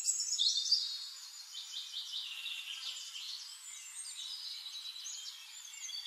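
Birds chirping: many short, high-pitched calls and quick trills overlapping throughout.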